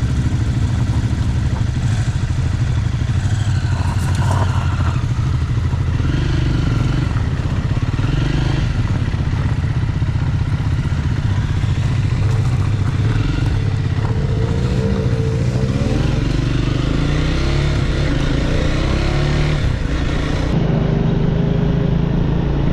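Motorcycle engine running on the move. Its pitch rises several times in steps in the second half as it accelerates.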